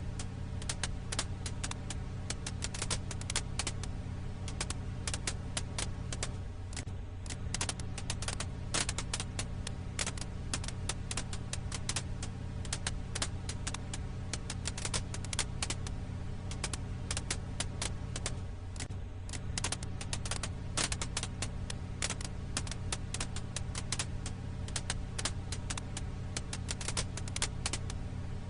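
Wood fire crackling: a dense, irregular stream of small pops and snaps over a steady low hum.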